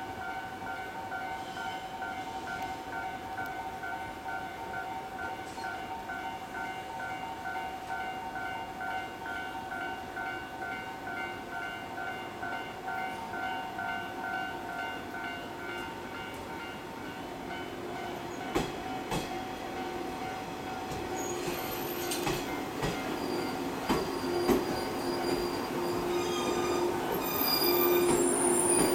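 Shinano Railway 115 series electric train pulling into the platform. About halfway through its wheels start clicking over the rail joints and points, and a squeal comes in, growing louder as the cars roll past near the end. Before that, a pulsing warning tone sounds steadily through the first half.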